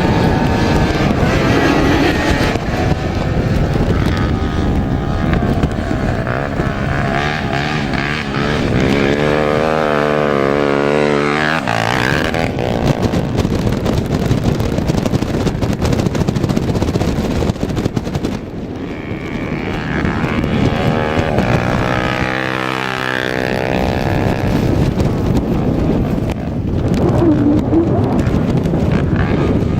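Rally motorcycle and quad engines racing along the stage, a continuous rumble with two machines passing close, their engine note sweeping in pitch, about 8 to 12 seconds in and again about 20 to 24 seconds in.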